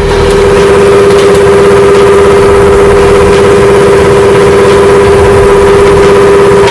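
A loud, steady motor drone held at one constant pitch.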